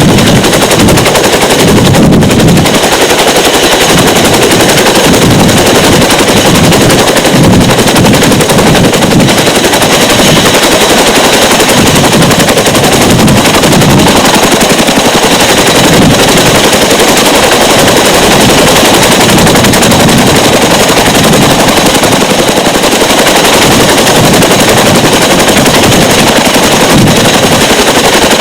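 CH-47 Chinook helicopter's tandem rotors and turbine engines running, a dense, rapid chopping that is very loud throughout, pushing the recording near its ceiling.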